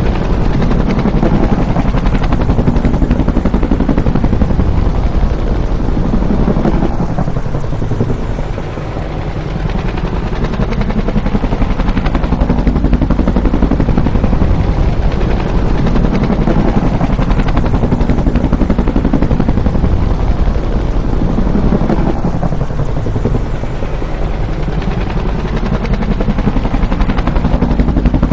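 Bell UH-1 Huey helicopter with its two-bladed main rotor beating in fast, even thumps. The sound swells and eases off twice, dipping about 8 and 23 seconds in.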